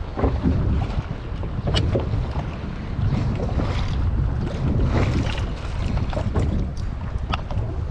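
Wind buffeting the microphone on a small boat on choppy water, a steady low rumble, with a few sharp clicks and knocks.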